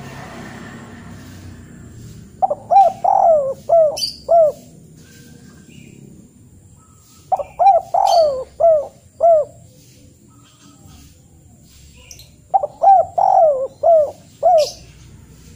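A bird calling: three repeated phrases of about six quick notes each, roughly five seconds apart.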